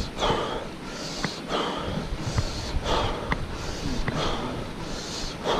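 A cyclist panting hard while climbing a steep hill: rapid, regular breaths in and out, with a few sharp clicks between them.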